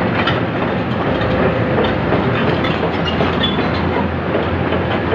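Heavy diesel engine running steadily, a loud, even rumble with a few faint metallic clicks over it.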